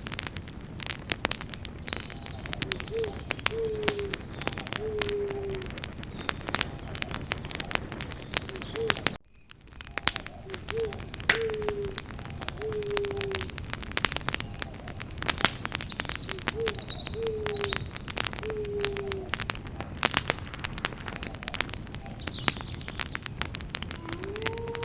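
Campfire crackling with frequent sharp pops over a soft hiss, joined by a low bird call of three short falling coos, heard three times about seven seconds apart. All sound drops out briefly about nine seconds in.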